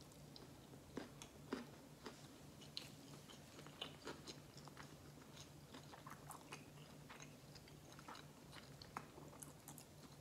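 Faint close-up chewing of a mouthful of sushi roll: soft, irregular wet mouth clicks and smacks.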